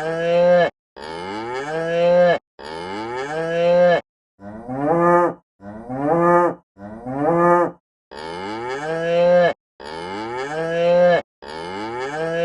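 Cow mooing: a run of about nine short moos, each rising in pitch and growing louder before cutting off sharply, separated by brief silent gaps.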